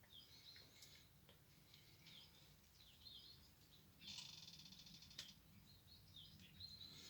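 Near silence, with faint high bird chirps and a short faint buzzy trill about four seconds in.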